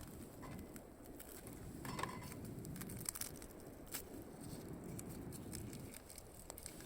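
Wood campfire burning, with a low steady rustle and irregular sharp crackles and pops.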